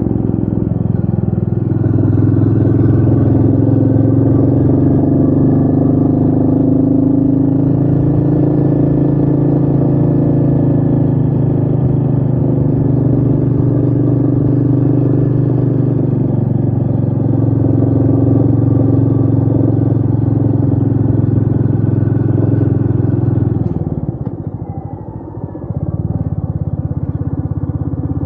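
Royal Enfield Meteor 350's single-cylinder engine running steadily under way, with wind noise. About four seconds before the end the engine note drops away briefly, then picks back up.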